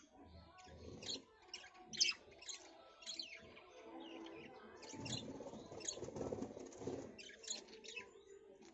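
Birds chirping: many short, high chirps, often falling in pitch, come several a second and stop and start irregularly, over a faint low rumble that swells briefly past the middle.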